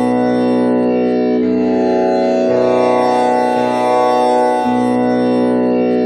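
Tanpura drone tuned to B, with one string set to komal Ni, its strings plucked in turn about once a second in a repeating cycle. The sustained tones overlap into one continuous drone with many overtones.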